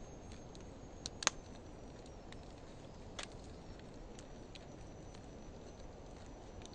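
Wood fire of driftwood and dry hardwood logs burning, with a low steady hiss and a few scattered crackles and pops, the loudest a sharp pop about a second in and another about three seconds in.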